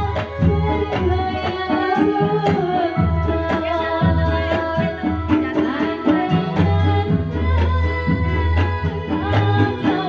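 Javanese dolalak folk music: hand drums beating a steady rhythm under a sustained melody line.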